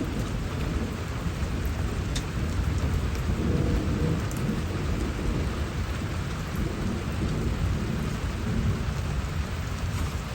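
Rain falling steadily with a low rumble of thunder that swells a few seconds in and again later.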